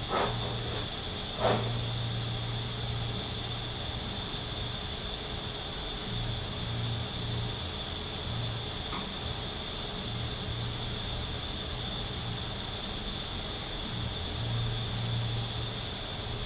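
Steady shop background hiss and low hum, with two sharp clicks of tools being handled in the first couple of seconds and a faint click later.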